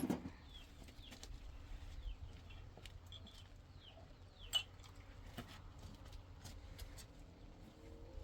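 Faint, scattered short bird chirps that fall in pitch, with a few light clicks over a low background rumble.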